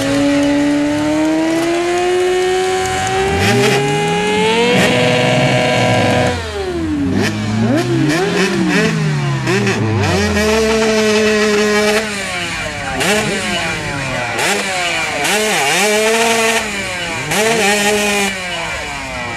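Motorcycle engines on the beach: one climbs steadily in revs for about five seconds, holds high briefly and then drops away, while other engines rise and fall in pitch as they pass. In the last seven seconds an engine is revved in a series of short blips.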